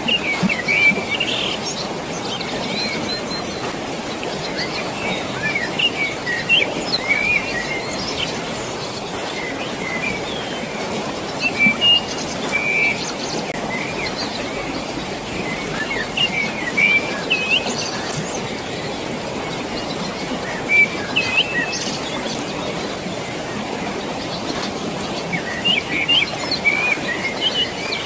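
Songbirds chirping in short bursts every few seconds over a steady rush of flowing water.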